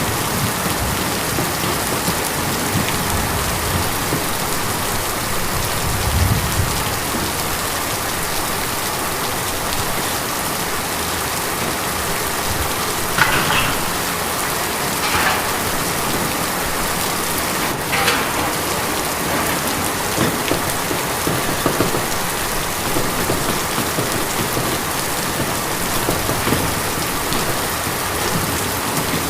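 Steady rain on a tin roof, an even pattering hiss, with a few louder individual drops standing out in the middle.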